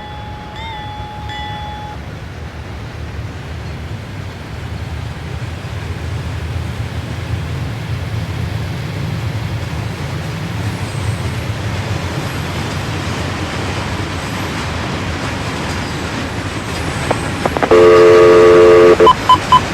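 Rumble of a passing Norfolk Southern freight train building slowly, then one loud locomotive air horn blast of just over a second near the end, its several notes sounding together. A quick run of beeps starts just after the horn.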